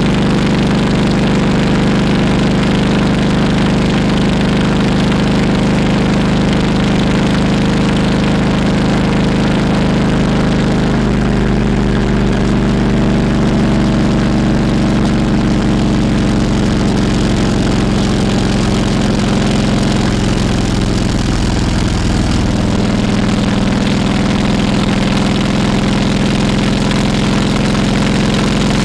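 Harley-Davidson Road King Classic's V-twin engine running steadily, its pitch shifting slightly about eleven seconds in and again about twenty-two seconds in.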